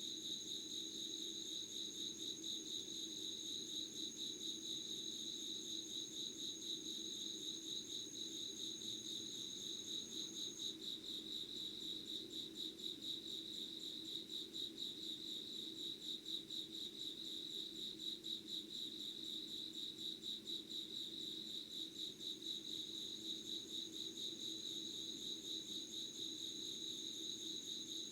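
Chorus of insects singing in steady, rapidly pulsing trills, one high-pitched singer dropping out about eleven seconds in and starting again near the end. A faint low hum runs underneath.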